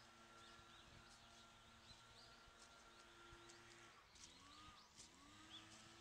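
Near silence: faint outdoor ambience with a few faint, short, high bird chirps scattered through it.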